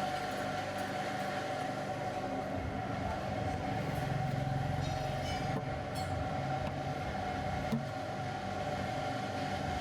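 A motor running steadily with a fixed-pitch hum and whine, stopping abruptly at the end.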